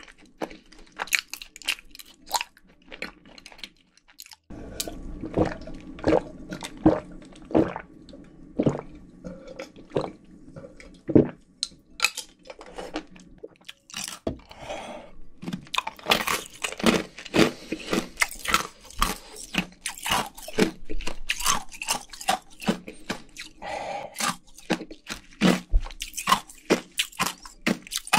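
Close-miked chewing of fried chicken and cheese balls: wet mouth sounds with many crisp, irregular crunches, busiest in the second half.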